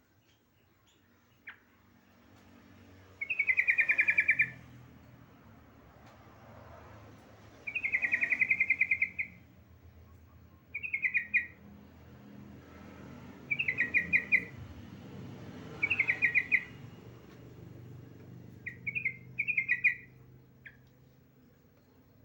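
Female yellow-vented bulbul calling to a male: about seven short bursts of rapid, chattering notes, each under a second or so long, a couple of seconds apart.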